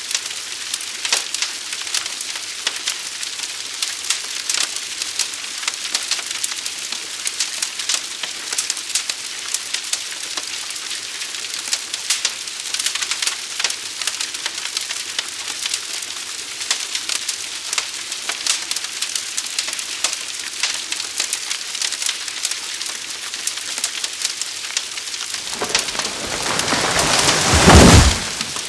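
Burning wood of a forest fire crackling steadily with dense sharp pops. Near the end, a rushing rumble swells for about three seconds to the loudest point, then cuts off abruptly.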